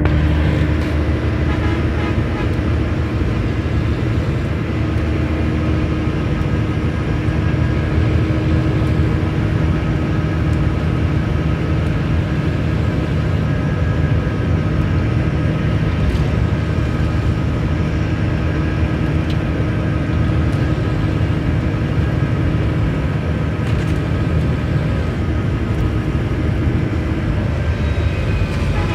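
Volvo B9R coach's rear-mounted six-cylinder diesel engine running steadily, heard from the back row inside the cabin, with a strong low hum.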